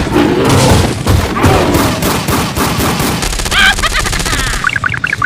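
Cartoon sound effects: a rapid run of gunfire-like popping for about the first three seconds, then high squeaky chirps near the end.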